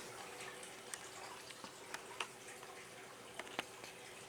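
Faint room tone: a low steady hum with a few scattered small clicks, one somewhat louder about three and a half seconds in.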